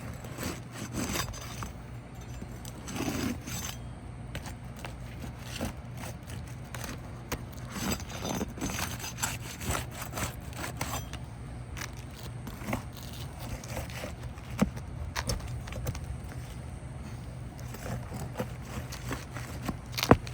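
Roofing nails being pried out of asphalt shingles with hand tools: scraping and rubbing with many sharp clicks and taps, irregular throughout, over a steady low hum.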